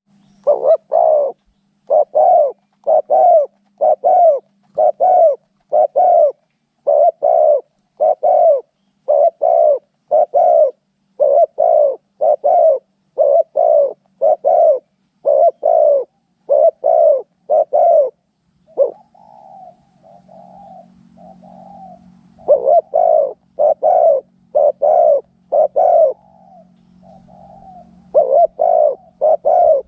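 Spotted doves cooing in a long, loud series of about one and a half notes a second, the calling of rival males fighting. Past the middle the loud notes pause for a few seconds while softer, shorter coos carry on, then the loud series starts again.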